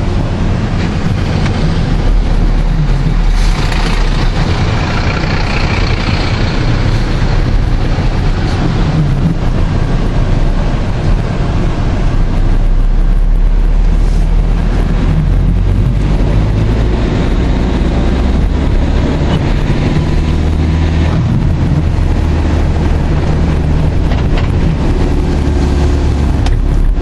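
Tropical-storm wind buffeting the microphone: a loud, continuous low rumble that swells and eases with the gusts.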